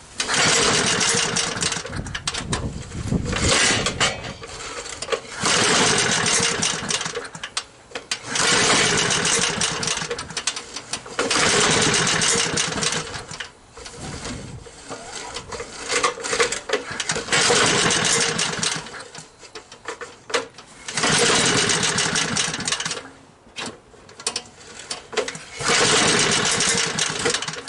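1983 Snapper mower's small engine being cranked over again and again, about nine bursts a second or two long with short pauses between, without settling into a steady run. The owner suspects the engine is flooded.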